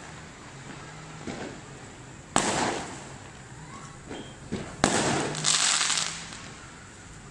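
Fireworks going off: two loud bangs about two and a half seconds apart, each trailing off over about a second, with fainter pops between them. A high hiss follows the second bang for about a second.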